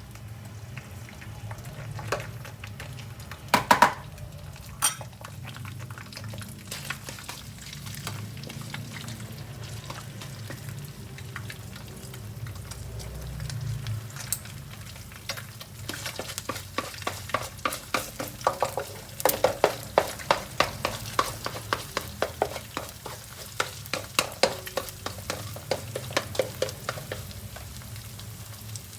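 Garlic egg fried rice sizzling in a pan while a spatula scrapes and clacks against the pan, a few loud knocks early and then quick, steady stirring strokes from about halfway through.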